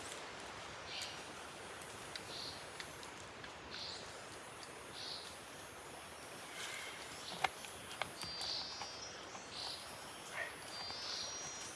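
Tropical forest ambience: a short high call repeats about once a second over a steady hiss of insects, with a few rapid trills near the end and two sharp clicks a little past the middle.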